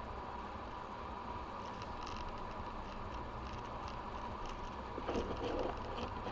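Truck driving: a steady low rumble with scattered light ticks, and a brief louder rustle about five seconds in.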